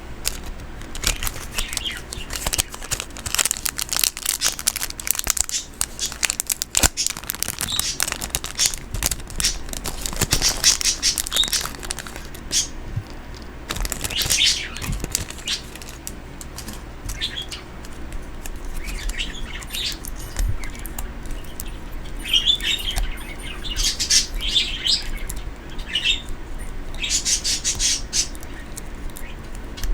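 Pet bird chirping in repeated short, high bursts, mostly in the second half, over a stream of small clicks and rustles from items being handled.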